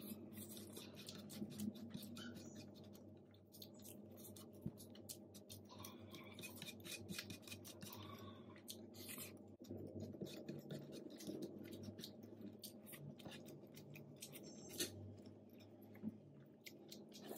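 Close-miked chewing of Maggi instant noodles, with many small clicking mouth sounds and light taps of wooden chopsticks, over a faint steady hum.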